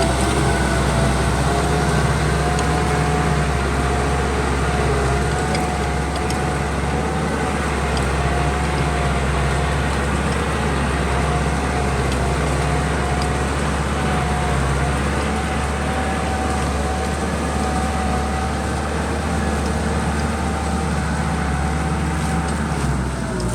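Kubota M6040 tractor's diesel engine running steadily while plowing a muddy field, with a steady whine above the engine note; the sound drops away near the end.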